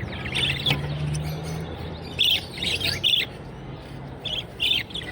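Caged small birds chirping and squawking in short clusters of high calls, about a second in, in a busier run between two and three seconds, and again near the end, over a steady low hum.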